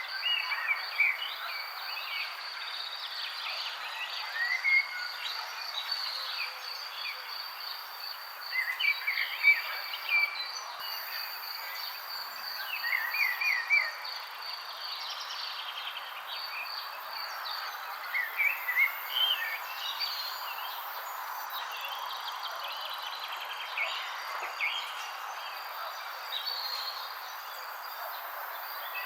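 Songbirds chirping in short scattered bursts every few seconds, over a continuous high, pulsing insect trill and a steady background hiss.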